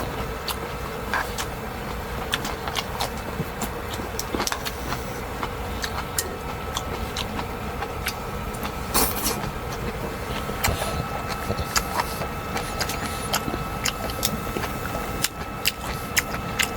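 Steady hum of a running fan heater over a low noise bed, dotted with irregular light ticks and taps.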